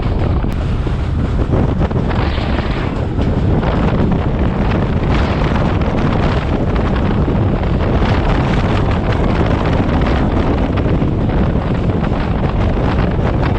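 Class S13 diesel multiple unit running at speed: a steady low rumble of the train on the rails, with heavy wind buffeting the microphone.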